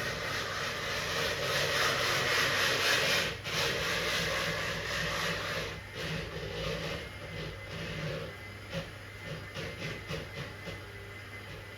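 Wood fire of alder, birch and oak burning in a fireplace, hissing steadily for about the first half, then crackling irregularly.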